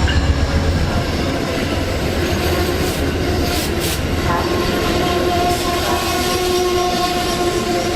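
Amtrak Northeast Regional passenger train running, a steady loud rumble, with a sustained tone joining about four seconds in.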